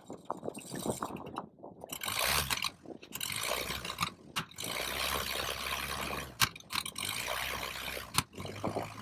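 Four-cylinder D-Motor aero engine of a Sherwood Ranger XP biplane running, a steady low hum under a loud rushing hiss of propeller wash. The hiss sets in about two seconds in and breaks off sharply a few times.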